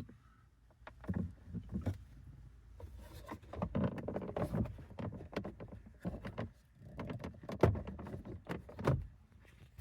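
Hard plastic dashboard trim of a 2012 Honda Civic being worked loose by hand: an irregular run of knocks, clicks and rubbing as panels and clips are pried and shifted, with one sharper knock near the end.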